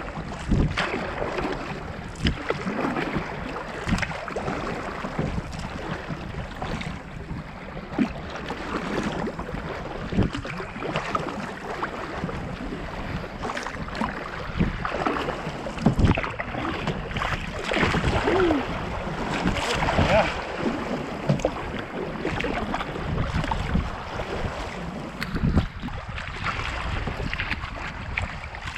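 Canoe on the water: paddle strokes and water splashing and slapping against the hull at irregular intervals, with wind on the microphone.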